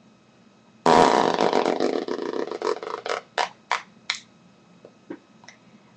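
Raspberry blown through pursed, squished lips, a fart-like sputter. One long sputtering blow starts about a second in, followed by several shorter sputters that grow fainter.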